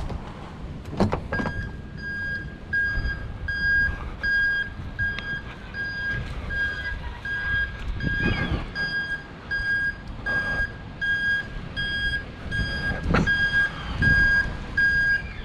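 A vehicle's reversing beeper: one high beep repeating at even spacing, starting about a second and a half in, over a low rumble with a few knocks.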